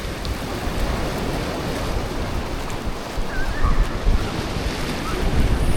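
Sea waves washing on a beach, with wind buffeting the microphone in uneven low gusts.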